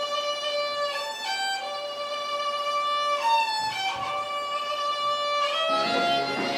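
Violin playing a slow melody of long held notes, each sustained for a second or more before moving to the next pitch.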